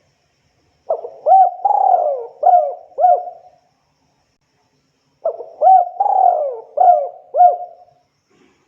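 Spotted dove (tekukur) cooing: two phrases of about five mellow coo notes each, the second starting about two seconds after the first ends.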